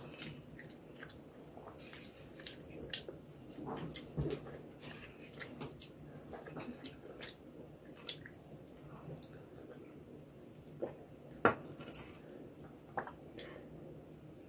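Close-miked chewing of rice and egg curry eaten by hand, with many short mouth clicks and smacks scattered through it and one louder click late on.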